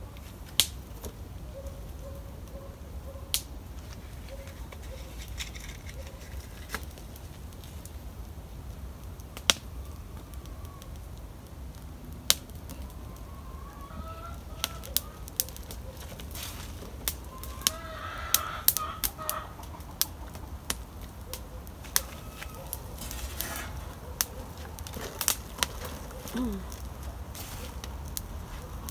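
Domestic chickens clucking and calling on and off, over scattered sharp pops and crackles from a campfire that is slow to catch even with firelighter.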